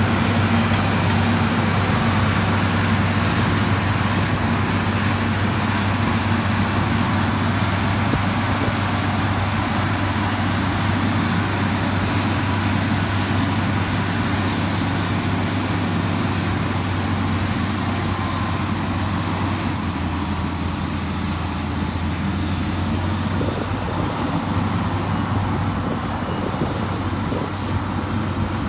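Diesel engine of heavy road-construction machinery running steadily under load, a constant low drone with gravel-and-machine noise above it.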